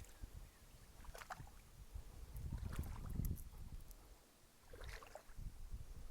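Wind rumbling on the microphone beside a river, strongest in the middle, with a few short faint splashes of water.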